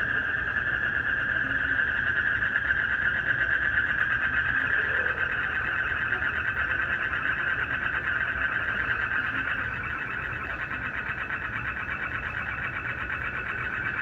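Dense night chorus of frogs and crickets: a steady, fast-pulsing trill that gets slightly quieter about ten seconds in.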